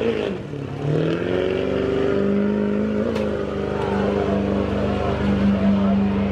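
Diesel pickup truck engine running hard under load during a sled pull. Its note dips briefly about half a second in, then climbs and holds steady at high revs.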